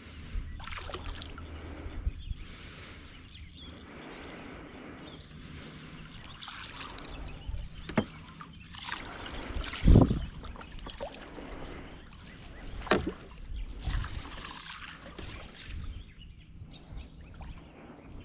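Water noise around a small jon boat, broken by several sharp knocks, the loudest about ten seconds in.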